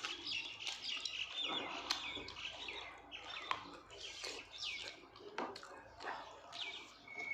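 Small birds chirping busily, many short falling chirps overlapping, with a steadier held whistle near the end. A few sharp clicks are mixed in.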